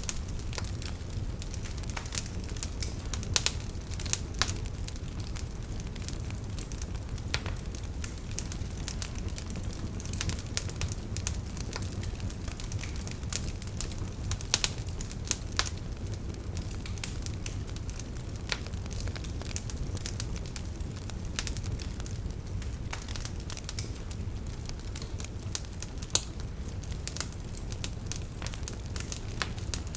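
Wood campfire burning, with frequent sharp irregular crackles and pops over a steady low rumble of flame.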